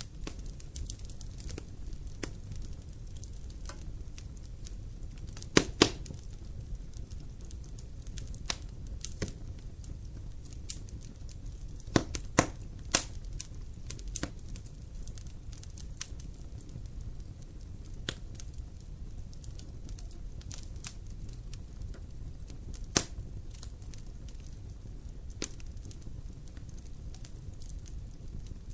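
Wood fire crackling in a fireplace, with irregular sharp pops over a low steady rumble. The loudest pops come as a pair about six seconds in and a cluster around twelve to thirteen seconds.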